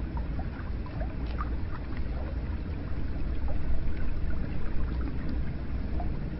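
Hot spring water running steadily into a bath with a low rumble, dotted with small scattered drips and gurgles.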